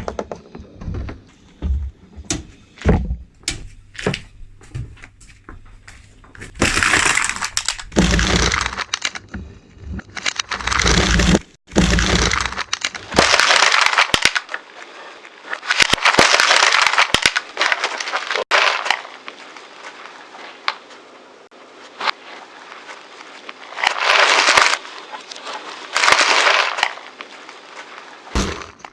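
A car tyre rolling over and crushing brittle objects: a quick run of sharp cracks and snaps, then several longer crunching, crackling bursts.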